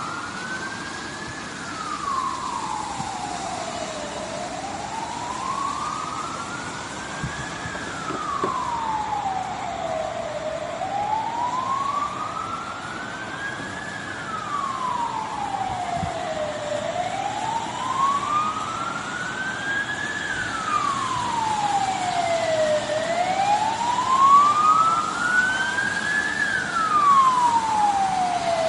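A siren wailing slowly and repeatedly: each cycle rises in pitch over about four seconds and falls over about two, five times over, above a steady background rush of noise.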